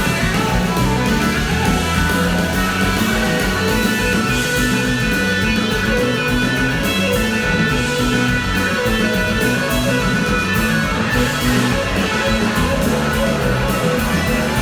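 Live rock band playing an instrumental passage: electric guitar to the fore over bass and drums, heard loud and steady through the PA.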